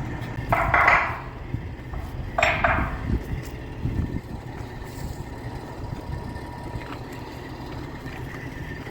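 Idling engine of heavy machinery running with a steady low rumble, with two short bursts of hiss about half a second and two and a half seconds in.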